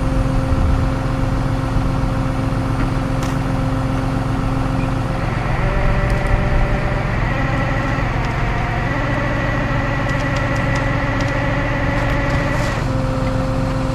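Tow truck engine running steadily during a winch recovery. From about five seconds in until near the end its tone changes, with a higher whine over the hum, then settles back to the earlier note.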